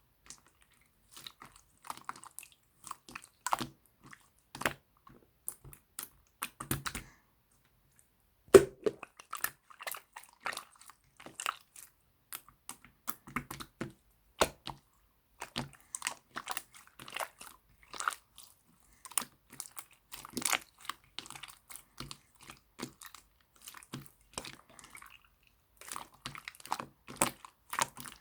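Clear slime being squished and pressed by hand, making a run of irregular small wet clicks and pops with brief pauses.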